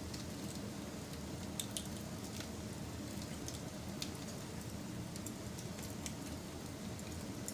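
Wood fire burning: a steady low rush of flames with irregular sharp crackles and pops, roughly one a second.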